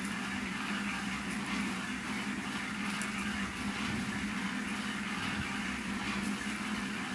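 Steady machine noise: a constant low hum with an even hiss over it.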